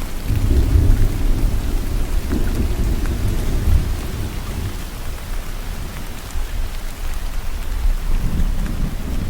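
Steady rain falling, with a long low rumble of thunder that swells in just after the start, eases off past the middle and builds again near the end.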